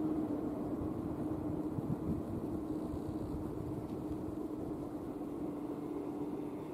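A 115-series electric train running away into the distance: a steady rumble with a low hum, slowly fading.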